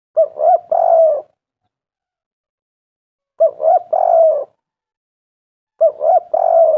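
Spotted dove cooing in three phrases about three seconds apart. Each phrase is two short coos and then a longer, drawn-out coo: the three-note 'kuk-kuk-kurr' call.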